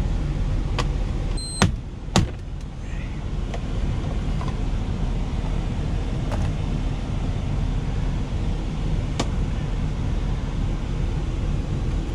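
Steady low rumble of the truck's engine idling, with scattered light clicks and two sharp knocks about a second and a half and two seconds in as food and utensils are handled in the cab.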